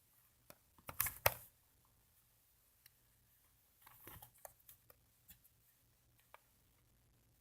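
Plastic clicks from a Nerf blaster being handled and loaded with foam darts: two sharp clicks about a second in, then a scatter of lighter clicks a few seconds later.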